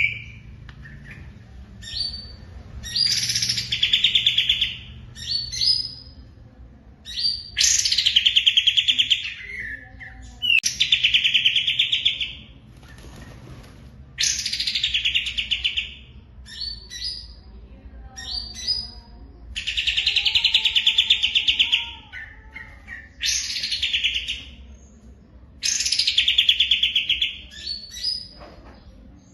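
A songbird singing, about eight loud phrases of very rapid, buzzy repeated notes, each one to two seconds long, with short pauses between them.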